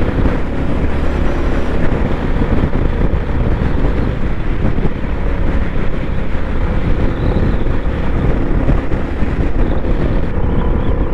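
Royal Enfield Bullet 350's single-cylinder engine running steadily at road speed, under heavy wind buffeting on the microphone.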